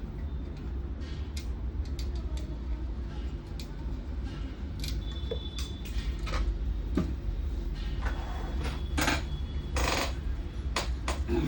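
Parts and tools being handled on a workbench while a monitor's power board is fitted into its casing: scattered clicks and knocks, more of them in the second half, over a steady low hum.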